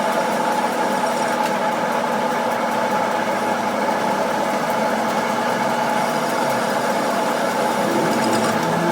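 A machine running steadily, a constant hum with a few steady tones and no change in speed.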